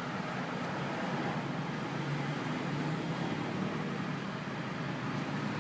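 2003 Honda Accord engine idling steadily and evenly, without a misfire, its repaired engine computer now triggering the injectors.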